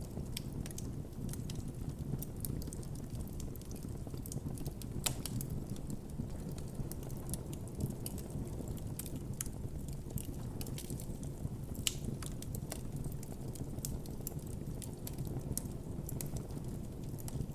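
Campfire burning: wood crackling and popping in frequent irregular sharp snaps over a steady low rush of flame, with two louder pops about five and twelve seconds in.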